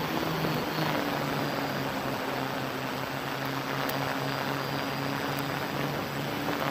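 Hexacopter's electric motors and propellers humming steadily, the pitch stepping slightly up and down, under a constant hiss.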